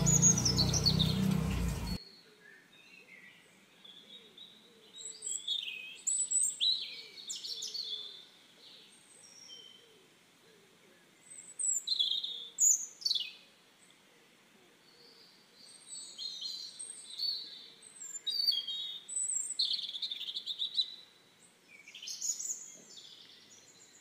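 Small birds chirping and twittering in scattered short phrases of high calls, some sliding downward in pitch. A louder stretch with falling whistles cuts off suddenly about two seconds in.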